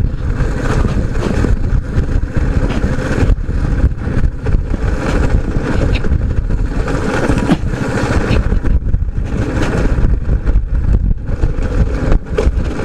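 Motorcycle running on the move, with a heavy, fluctuating low rumble of wind on the microphone and frequent short knocks.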